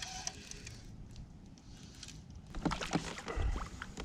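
Movement in a fishing kayak on the water: scattered soft knocks and clicks against the hull, busier in the second half, with a low thump about three and a half seconds in.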